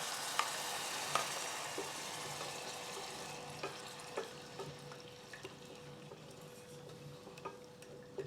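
Water sizzling in a hot pan of sesame oil, minced garlic and ginger, the sizzle fading steadily as it settles, with a few light clicks of a spoon stirring.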